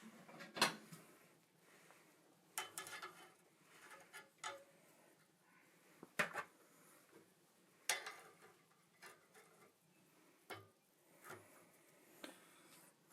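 Scattered metallic clinks and knocks every second or two, the loudest about half a second in: steel tools and stock being handled at a forge.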